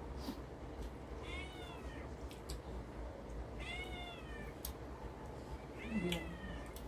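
Three short high-pitched calls about two seconds apart, each arching up and then falling in pitch, like an animal's meows, with a few faint clicks between them.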